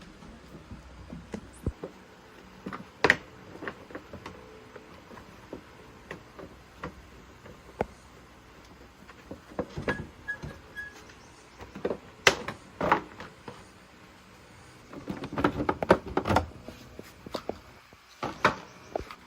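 Tools and metal motorbike parts clinking and knocking as they are handled and taken apart: scattered single knocks, with a denser run of rattling clinks about three-quarters of the way through.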